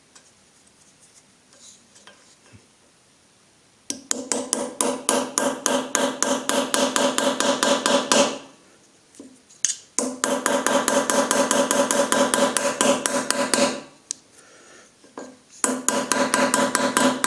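Hammer rapidly tapping a chisel against the stub of a damaged screw, about seven ringing metal strikes a second, to turn the headless screw remains out. Three runs of tapping, starting about four seconds in, each a few seconds long with short pauses between.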